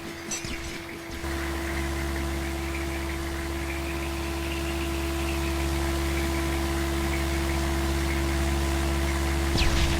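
A yellow airplane's motor running with a steady hum that starts about a second in and grows slightly louder.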